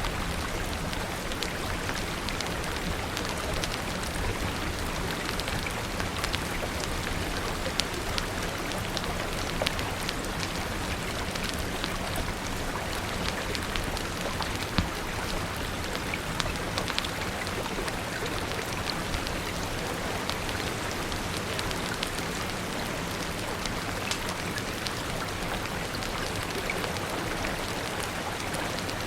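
Steady rain falling, mixed with a wood fire crackling in scattered sharp pops, a few of them louder than the rest.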